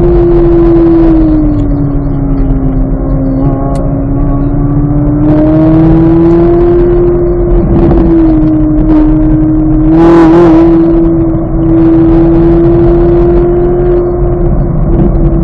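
2023 Chevrolet Corvette Z06's 5.5-litre flat-plane-crank V8 running hard under load on a race track, its note sagging a little a couple of seconds in and climbing back to a steady high pitch. About ten seconds in there is a brief burst of rushing noise.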